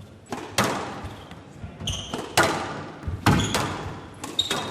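Squash ball cracking off rackets and court walls in a fast rally: sharp strikes about once a second, each with a short ring in the hall, and brief high squeaks between shots.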